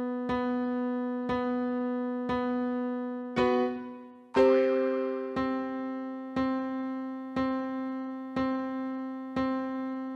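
Keyboard playing a held chord, struck again about once a second, moving to a new, louder chord about four seconds in.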